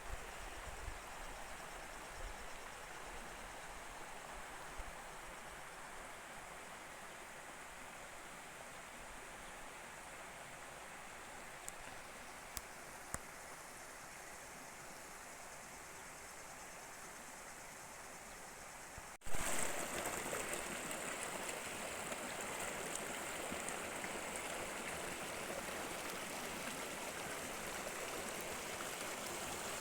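Running water of a stream, a steady even rush with a few faint ticks. About two-thirds of the way through it jumps suddenly to a louder, brighter rush.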